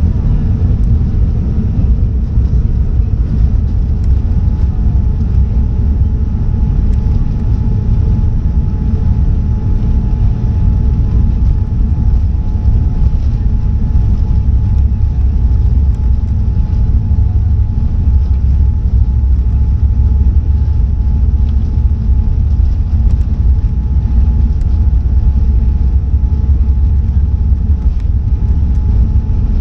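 Boeing 787-10 jet engines at takeoff power: a steady deep rumble with a thin steady whine over it.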